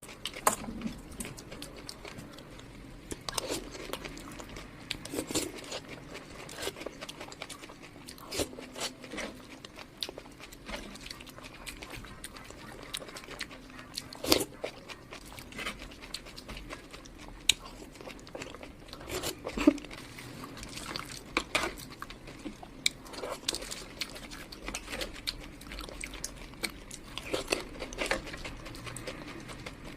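Close-miked eating: bites and crunchy chewing of junk food, with many sharp crunches and wet mouth clicks at irregular intervals.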